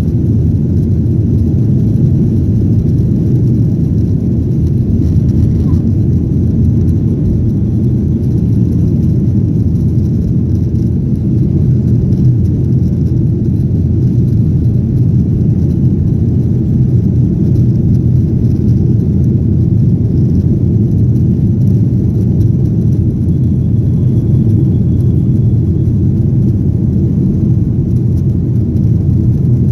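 Steady low rumble of a Boeing 737-800's CFM56 jet engines and airflow, heard from inside the passenger cabin.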